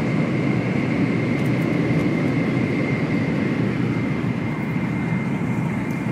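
Cabin noise of a Shinkansen bullet train running at high speed: a steady rumble with a thin, constant high whine over it.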